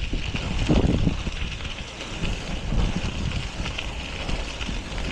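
Wind buffeting the microphone of a moving bicycle rider, an uneven gusty rumble with a steady hiss above it.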